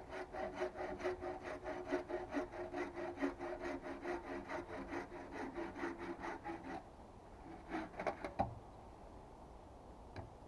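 Hand saw cutting wood in quick, even strokes, about four a second, with a ringing tone. The strokes stop about seven seconds in. A few last strokes and a sharp knock follow, the knock being the loudest sound.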